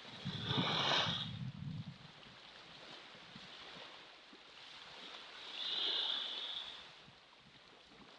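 Ocean waves washing in, rising and falling twice, about five seconds apart, with a low rumble of wind on the microphone near the start.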